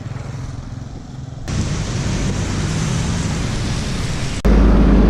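Road traffic noise and rushing noise, cut between several short clips. A much louder low rumble cuts in suddenly about four seconds in.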